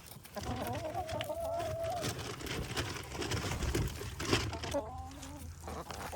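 Hens clucking and calling. One drawn-out, wavering call comes about half a second in and lasts well over a second, and shorter calls follow near the end.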